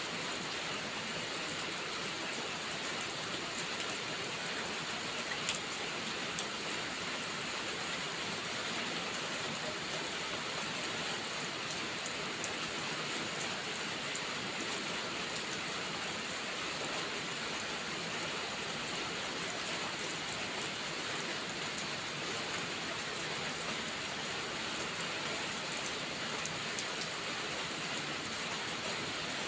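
Steady rain falling, an even hiss that holds the same strength throughout, with a single light tick about five seconds in.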